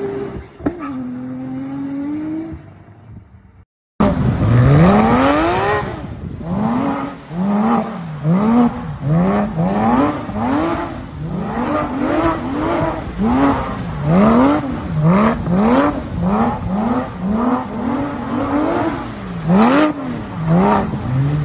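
A sports car's engine is revved up and dropped again and again, roughly once a second, as the car slides in circles on a wet skid pad. Before that, for about three seconds, another car's engine note fades as it drives away, then the sound breaks off briefly.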